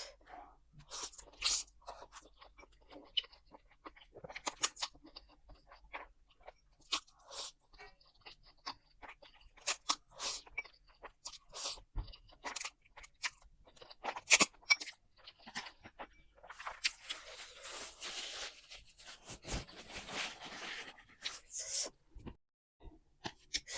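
Close-miked eating sounds: chewing and crunching of noodles, sausage and omelette, with many short sharp clicks of mouth and utensils, and a longer stretch of continuous noise about two-thirds of the way through.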